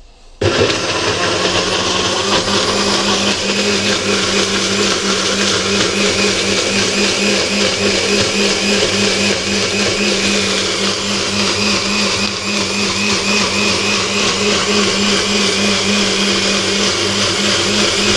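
Electric blender switched on about half a second in and running steadily at speed, pureeing roasted chillies, peppers, onions and garlic with lemon juice into a peri peri sauce.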